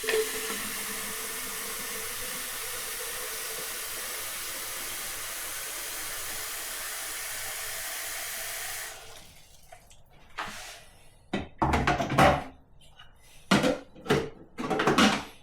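Tap water running steadily as the coffee machine's water tank is topped up, stopping about nine seconds in. Several sharp knocks and clunks follow near the end.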